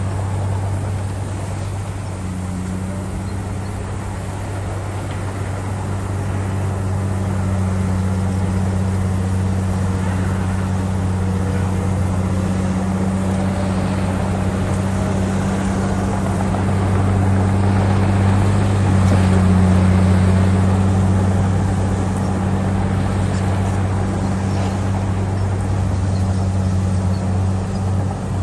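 Diesel engine of a heavy earthmoving machine running steadily with a deep drone, growing louder for a few seconds about two-thirds of the way through, then easing back.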